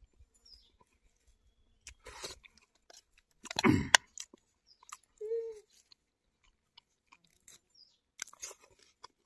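Close-up eating: a person chewing a mouthful of food, with scattered small mouth clicks. About three and a half seconds in, a louder scrape comes as a plastic spoon scoops from the plate.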